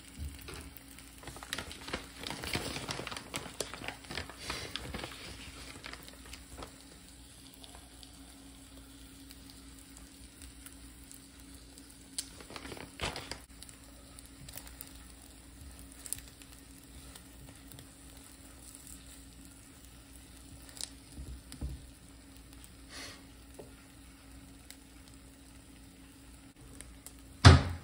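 An omelette frying in a skillet: a soft, steady sizzle with scattered small ticks and crackles, busier in the first few seconds. Near the end there is one sharp knock.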